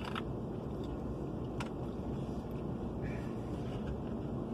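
Steady low rumble of a truck's engine idling, heard from inside the cab, with a few faint clicks.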